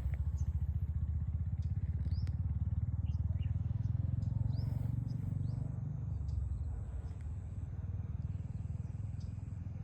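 A low, steady engine rumble with a fast even pulse, like a motorcycle or other vehicle engine running, with brief bird chirps over it.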